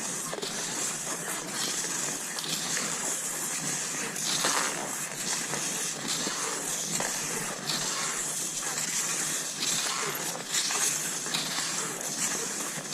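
Cross-country skis sliding over snow, a steady swishing hiss with a stride or pole stroke about once a second.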